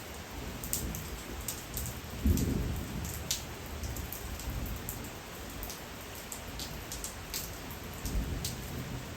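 Steady rain with separate raindrops ticking sharply on a surface. A low rumble swells about two seconds in, which is the loudest moment, and a smaller one comes near the end.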